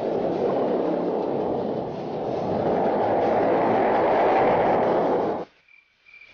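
MRF 120 pit bike engine running under way, mixed with wind rush on the helmet-camera microphone, growing a little louder midway and cutting off abruptly near the end.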